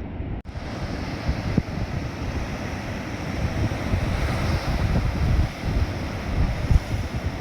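Surf breaking on a beach under strong wind buffeting the microphone, with a brief cut-out about half a second in.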